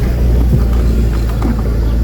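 Mercedes-Benz A160 running and driving, with a steady low engine and road rumble.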